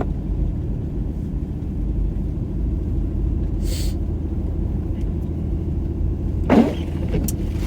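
Steady low rumble of a car driving on a snow-covered road, heard inside the cabin. There is a brief hiss about four seconds in and a short louder sound near the end.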